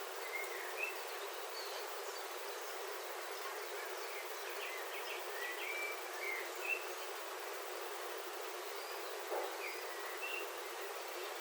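Steady rain on a roof heard from inside, an even hiss, with birds outside giving short chirps now and then, several in quick succession about halfway through.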